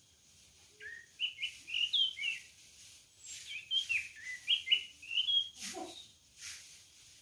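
Orange-headed thrush singing: two quick runs of short notes that slide up and down, each lasting a second or two.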